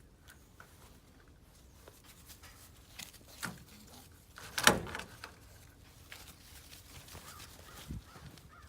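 Puppies playing: scattered small knocks and scuffles, with one loud thump a little past halfway through.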